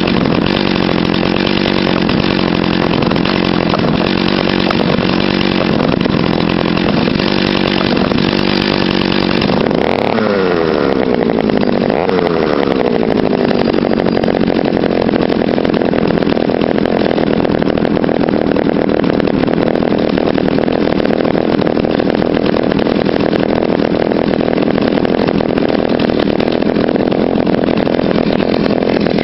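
Small two-stroke engine running steadily. About ten seconds in its pitch falls over a couple of seconds as it slows, then it runs on at the lower speed.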